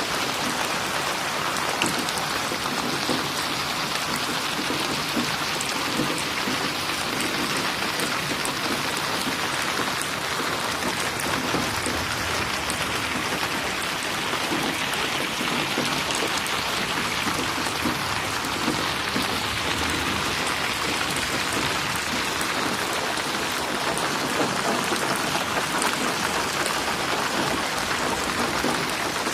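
Steady heavy rain falling and splashing on a surface, a dense even hiss with fine scattered drop ticks and no thunder.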